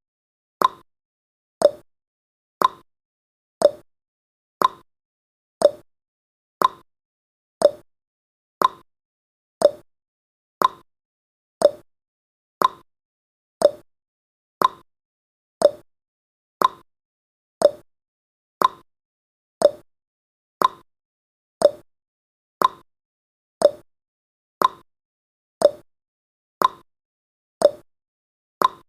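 Clock-style ticking sound effect of a countdown timer: one sharp tick about every second, at a steady rate, alternating between a higher and a lower tick like a tick-tock.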